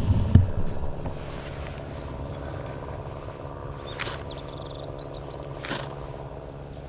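Heavy handling bumps at the start, then a ferrocerium rod scraped twice with its striker, short sharp rasps about four and six seconds in, to light a dryer-lint tinder bundle. A steady low hum runs underneath throughout.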